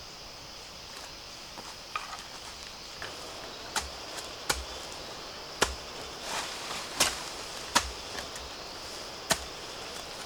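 A blade chopping at bamboo shoots: a scattered run of sharp, irregular strikes, about seven or eight of them. A steady high insect drone runs behind.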